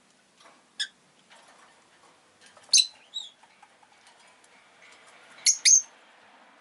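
Rosy-faced lovebird giving short, sharp chirps: a single one about a second in, a loud pair near three seconds, and a quick double chirp near the end.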